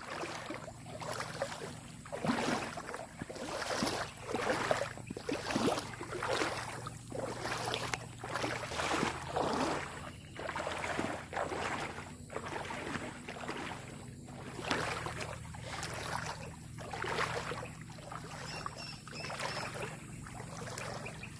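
Footsteps in gumboots wading through shallow floodwater and mud, sloshing at a steady walking pace of a little more than one step a second.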